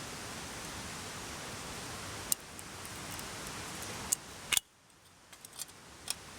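Steady rushing of a mountain stream, with a few sharp clicks and knocks; about two-thirds of the way through the rushing drops away suddenly to a much quieter background with a few small clicks.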